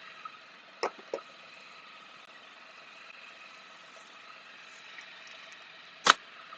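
Can-Am Spyder RT's Rotax 1330 three-cylinder engine idling steadily, warming up ahead of an oil change. Two sharp knocks about a second in and a louder knock near the end.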